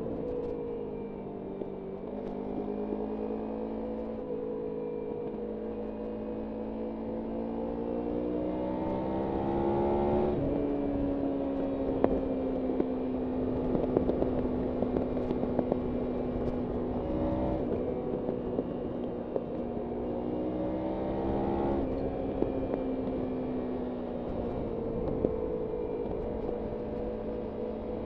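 Kawasaki Ninja 300's parallel-twin engine riding on a canyon road, its pitch climbing under acceleration and dropping sharply at an upshift about ten seconds in and again a little past twenty seconds, with steadier cruising between. Wind noise rushes throughout.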